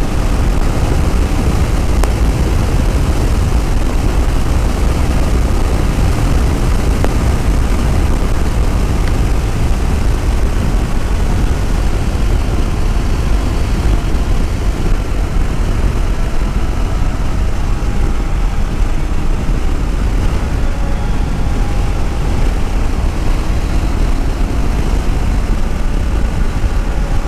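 Yamaha WR250R's single-cylinder engine running steadily under way, with heavy wind rumble on the microphone from riding at speed.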